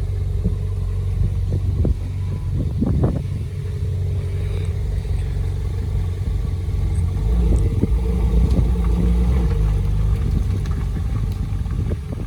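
A car engine running with a deep low rumble, growing louder about seven seconds in and easing off near the end.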